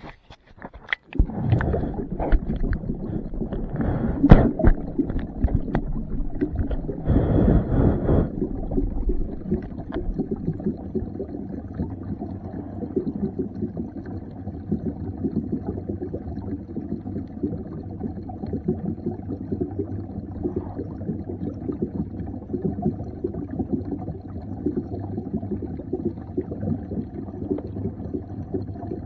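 Muffled underwater sound picked up by a submerged camera in a pond: knocks and louder rushes of noise in the first eight seconds, then a steady low gurgling rumble.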